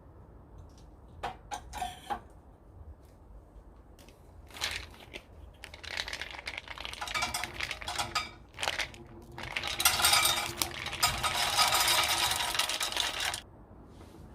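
Clattering and rattling of small hard objects in several bursts, the loudest and longest about three seconds near the end, stopping abruptly.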